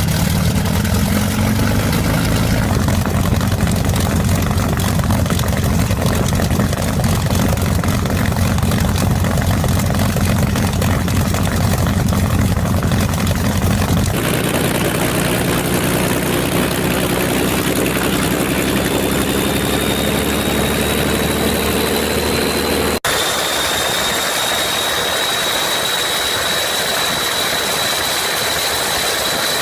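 Engine running steadily at idle, in sections cut together with abrupt changes about 14 and 23 seconds in. In the later part a thin high whine rises slowly, then holds steady.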